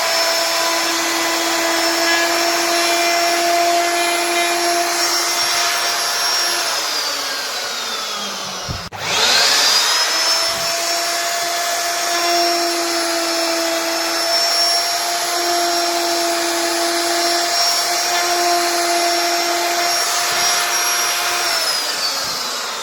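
CNC router spindle motor running with a steady high whine over cutting noise. About seven seconds in it winds down, drops out briefly and spins quickly back up to speed, then near the end it starts winding down again.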